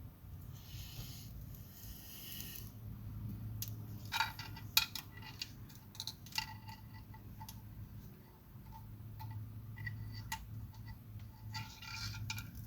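Extendable magnet pickup tool clicking and tapping against steel inside the tractor's transmission housing as it is fished around for shavings: a scatter of light metallic clicks, busiest about four to five seconds in, over a steady low hum.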